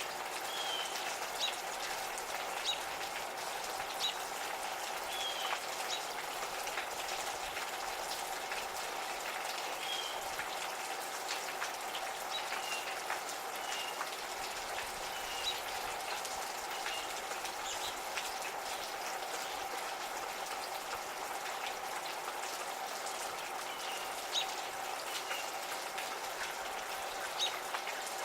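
Gentle steady rain, with drops ticking on nearby surfaces, and a songbird giving short chirps every second or two. A steady hum runs underneath.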